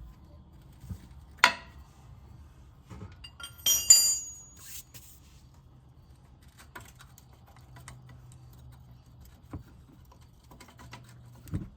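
Wrench and socket work on a truck's upper control arm bolt: scattered metal clicks, a sharp click about a second and a half in, and a cluster of ringing metallic clinks around four seconds in.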